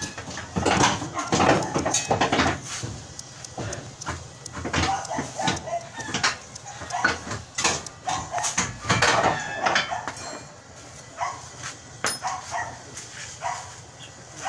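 Short, repeated animal calls, like a dog barking, mixed with voices and scattered knocks.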